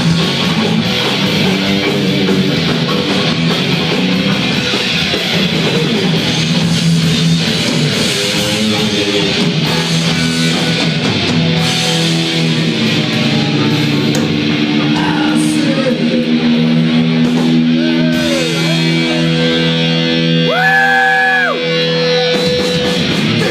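Thrash band playing live at full volume: distorted electric guitars, bass and drums, with some vocals, recorded on a phone. Toward the end, sustained notes bend in pitch.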